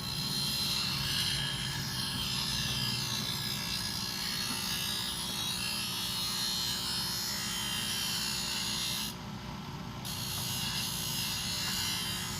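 Bench grinder wheel grinding a steel thickness planer knife: a steady motor hum under a high grinding hiss. The grinding starts at the beginning, drops out for about a second near the end, then resumes.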